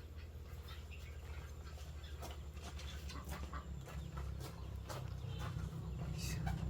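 Domestic chickens clucking in short scattered calls over a low steady rumble that grows louder toward the end.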